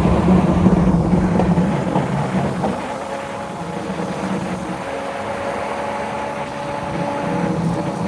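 Pagani Zonda R's V12 engine running at low revs, loudest for the first two to three seconds, then settling to a steadier, quieter note before swelling slightly again near the end.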